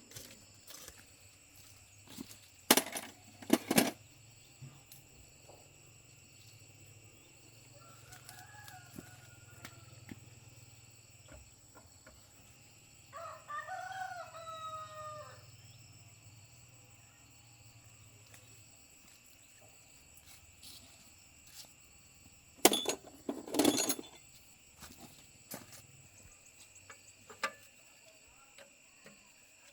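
Two clusters of sharp knocks, about three seconds in and again about 23 seconds in. Between them a rooster crows once, in one call of about two and a half seconds, after a fainter call a few seconds earlier. A faint steady hum runs underneath.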